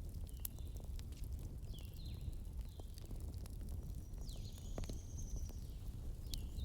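Wood fire crackling, with scattered sharp pops over a steady low rumble. Short high chirps come and go above it, with one longer high whistle about four seconds in.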